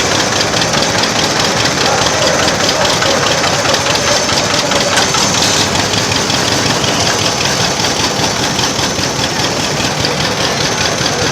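Antique tractor engine running steadily, with an even beat of firing strokes.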